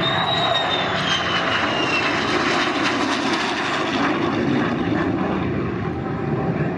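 An airplane flying past. Its engine noise swells to a peak about three seconds in and then fades, and a high whine falls in pitch over the first two seconds.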